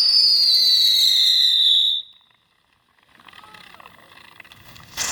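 Whistle from a Brothers 'Step On It' ground-spinning novelty firework: a loud high whistle sliding slowly down in pitch, cutting off abruptly about two seconds in. After a brief silence there is a faint hiss, and a new whistle starts right at the end.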